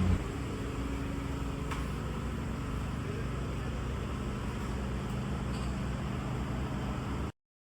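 Car engine idling steadily, a low even hum, cutting off abruptly near the end.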